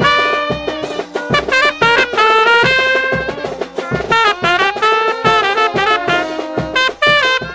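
Tanjidor brass band playing: trumpets and trombones sounding a melody of held and moving notes over regular drum beats.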